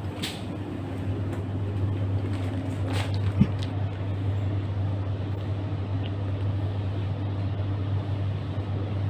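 Steady low hum of an electric suburban train, with a single sharp knock about three and a half seconds in.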